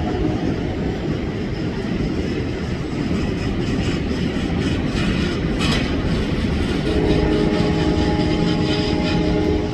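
Boeing 747-400 jet engines running loudly on takeoff, a steady rumbling roar with a whine that fades about half a second in and returns about seven seconds in.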